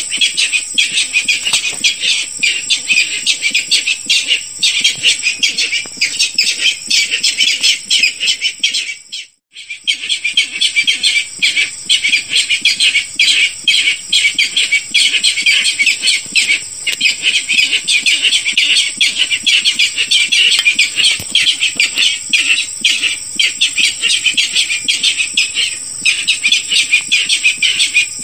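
Barred rail calls played as a bird lure: a rapid, unbroken stream of short notes that stops for about a second around nine seconds in, then resumes.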